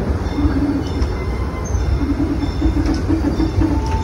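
Disneyland Railroad passenger car running along the track: a steady low rumble of the wheels on the rails.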